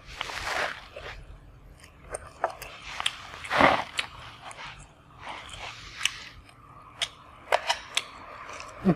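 Close-up eating sounds: crisp fried chicken being bitten and chewed, in several noisy crunching swells, the loudest about halfway through. Scattered sharp clicks come in between.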